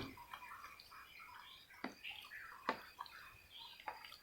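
Faint birds chirping in the background, broken by four sharp clicks spread through the stretch.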